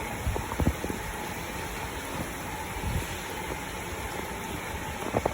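Hurricane wind blowing in a steady rush, with gusts buffeting the microphone in short low thumps about half a second in and again near the end.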